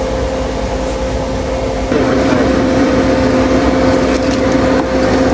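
A steady machine hum with a rushing noise, growing louder about two seconds in.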